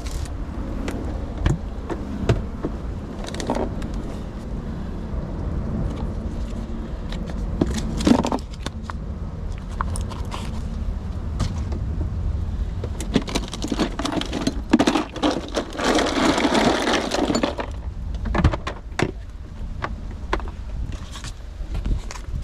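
Items being handled and set down: a run of clicks, knocks and light clatter over a steady low rumble, with about four seconds of rustling noise a little past the middle.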